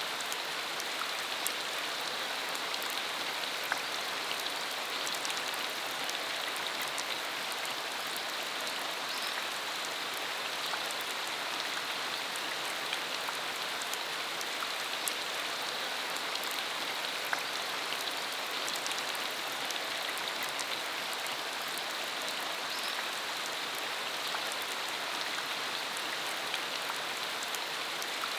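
Steady rain falling, a continuous hiss with many scattered small drop ticks and no change in intensity.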